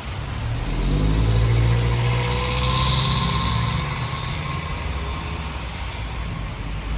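A motor vehicle's engine running close by, rising in pitch as it speeds up over the first couple of seconds, then holding and easing off, over a steady hiss.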